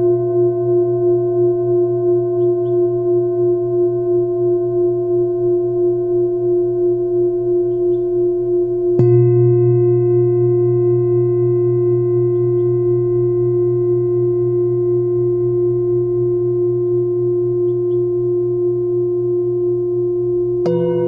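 Singing bowls ringing with a steady, pulsing hum, struck again about halfway through and once more near the end, each strike adding brighter overtones. Faint bird chirps can be heard now and then behind the bowls.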